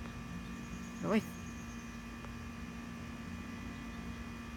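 A steady low electrical-sounding hum, with one short, rising vocal squeak about a second in.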